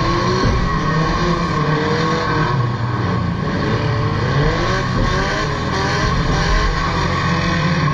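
Several pre-1975 banger racing cars' engines running and revving together on the track, their pitches rising and falling over one another.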